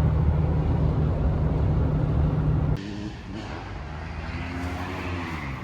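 Motor vehicle running, a steady low engine and road rumble. About three seconds in it drops suddenly to a quieter rumble.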